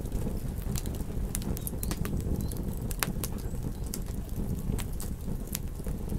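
Campfire crackling: frequent sharp irregular pops and snaps over a low, steady rumble of burning wood.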